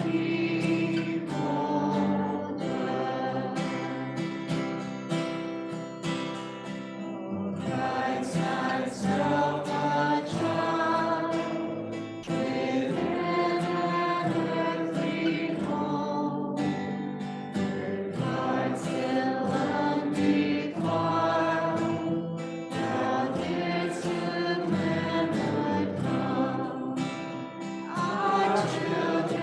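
Congregation singing a hymn in unison with steady instrumental accompaniment, phrase after phrase with brief dips between lines.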